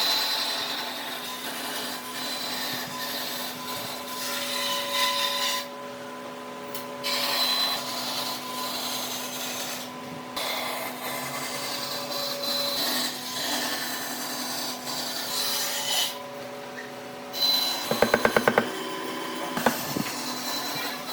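Power tool working wood: a steady motor hum over a rubbing, rasping noise that stops abruptly a few times. A quick run of sharp clicks comes near the end.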